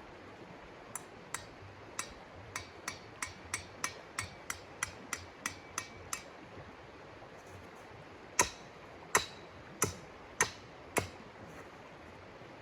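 A run of about sixteen sharp knocks like hammering, some with a faint ring, speeding up to about three a second, then after a pause five louder, slower blows.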